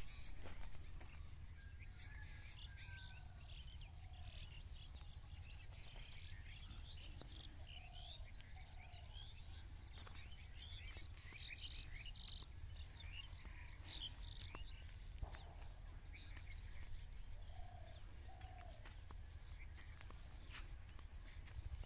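Small birds chirping and twittering faintly and continuously over a low steady rumble, with a few lower two-note calls now and then.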